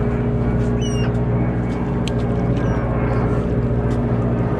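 Charter fishing boat's engine running steadily, a constant low hum and drone, with a brief high chirp about a second in.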